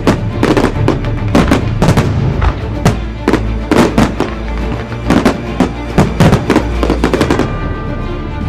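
Fireworks going off in a rapid, irregular string of loud bangs that stop shortly before the end, with music playing underneath.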